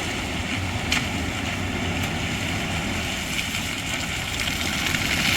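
Vehicle engine running steadily under a constant rush of outdoor noise, with a rising hiss near the end.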